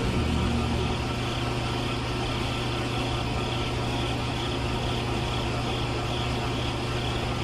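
A motor or engine running steadily at an even pitch, like an idling engine.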